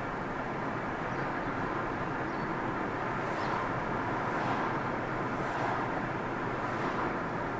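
Steady road noise of a car driving, tyres and engine, with a few faint brief hisses in the second half.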